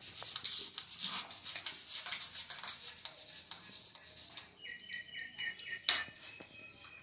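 A small bird chirping: a quick run of short high chirps about four and a half seconds in, after faint scattered clicks, then one sharp click.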